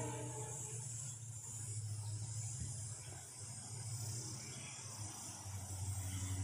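Distant approaching passenger train: a low rumble that swells and eases, under a steady high hiss, with the last of a train horn fading away in the first second.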